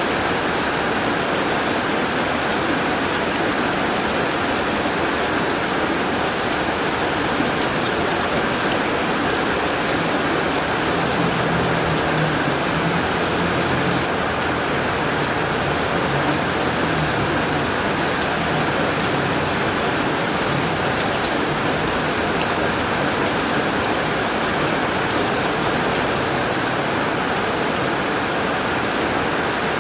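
Steady heavy rain drumming on a tin roof, with scattered sharp drop ticks. A soft low rumble comes in about a third of the way through and fades after several seconds.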